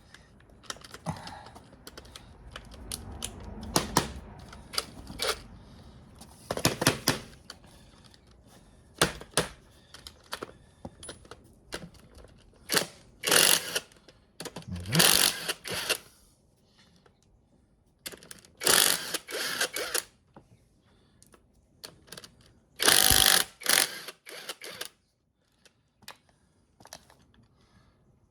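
Metal hand tools clicking and clattering while bolts are undone by hand: irregular sharp knocks and ticks, with several louder bursts of rapid clicking up to about a second long, like a ratchet being worked.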